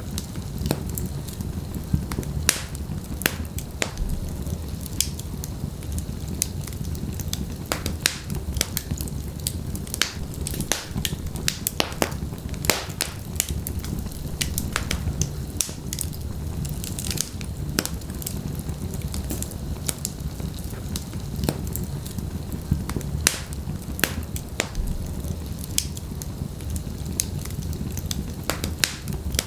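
Wood fire burning in a fireplace: a steady low rumble of flames with sharp, irregular crackles and pops from the logs.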